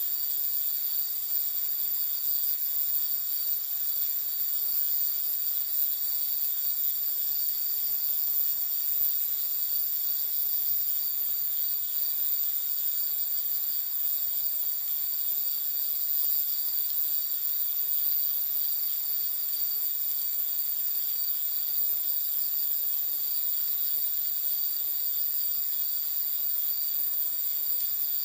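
A chorus of night insects chirring steadily at several high pitches.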